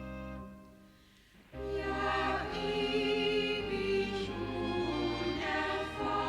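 Background music: a held orchestral string chord fades out, then about a second and a half in a choir starts singing over orchestral accompaniment.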